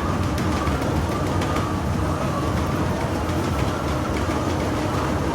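Hen-house manure belts and cross conveyor running steadily, a continuous mechanical rumble with a faint hum and light scattered ticks as the muck is carried out to the trailer.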